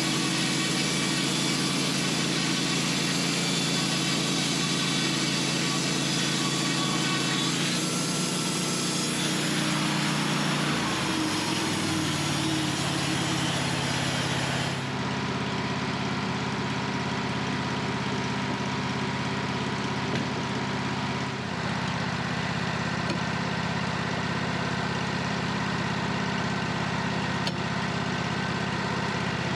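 Portable sawmill's engine running steadily, its pitch changing a few times, with a short falling glide about a third of the way in.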